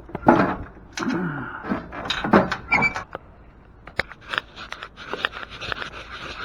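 Heavy metal parts of a steel work table being pulled and shifted: a series of loud clunks and sliding scrapes in the first three seconds, then a steadier scraping rattle with small clicks.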